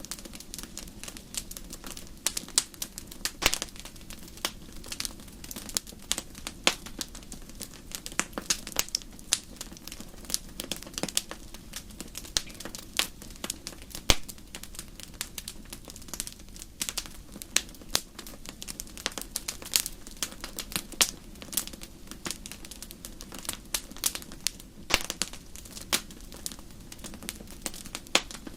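Campfire crackling: a steady low rush of burning wood with frequent irregular sharp pops and snaps.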